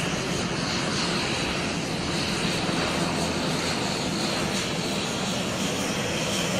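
Steady drone of an airplane's engines, an even low hum with a hiss above it that holds unchanged.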